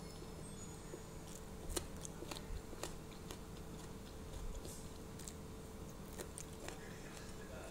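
Someone chewing a bite of crisp fried tofu: irregular soft crunches and mouth clicks, over a low steady hum.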